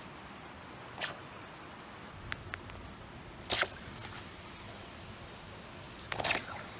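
Hot stones being handled and dropped into water to bring it to the boil: three brief scratchy noises over a steady hiss, the last and loudest near the end.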